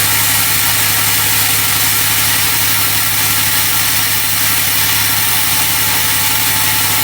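2009 Dodge Ram's 6.7-litre Cummins turbo-diesel idling steadily, with a loud, even hiss and a faint steady whine on top.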